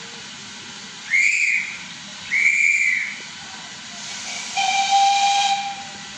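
Two short, shrill whistle blasts, then a lower whistle blast of about a second with a hiss of steam, typical of a steam train's whistle.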